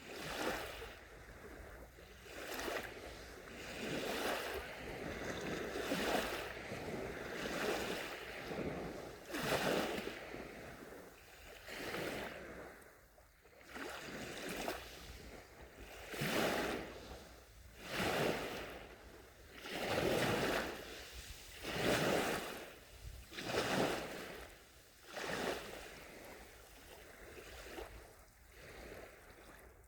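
Small sea waves washing onto a shore, one after another, each a swelling rush of surf that fades before the next, about one every one to two seconds.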